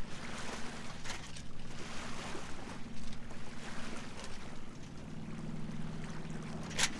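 Steady low hum of the sailboat's engine with water rushing and splashing along the hull while under way; a single sharp click near the end.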